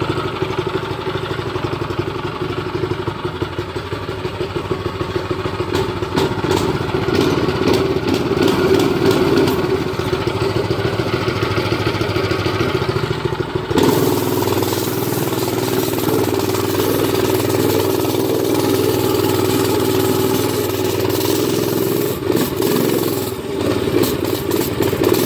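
Predator 212cc single-cylinder engine of a Doodlebug minibike running steadily just after a choked start. About 14 s in the sound changes abruptly and more hiss comes in.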